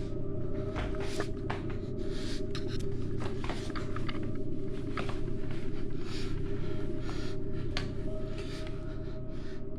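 A steady low drone with a faint held tone above it, overlaid by frequent short rustling and scraping noises and scattered clicks, as of objects being handled and moved about. The rustling thins out near the end.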